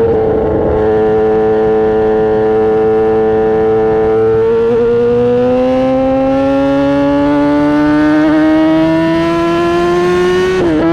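Kawasaki ZX-10R's inline-four engine pulling under load through its exhaust. The pitch holds steady for a few seconds, then climbs slowly as revs build, and drops sharply near the end at a gear change.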